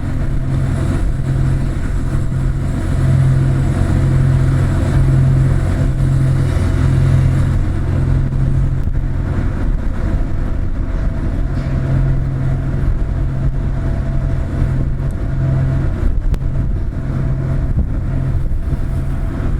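The ferry Daijuni Osumi's diesel engines running with a steady low drone that swells and eases slightly in level, as the ship departs.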